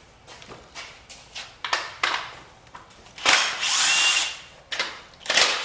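A cordless power tool, an impact driving a socket, runs for about a second to spin a bolt out, then starts again near the end. A few light metallic clicks of tools and sockets come before it.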